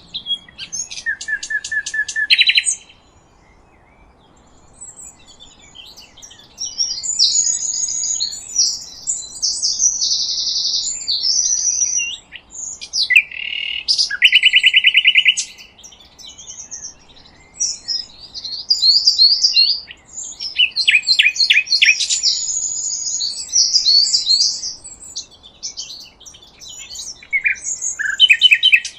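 Songbirds singing: a series of phrases of chirps, whistled notes and fast trills, with short pauses between them.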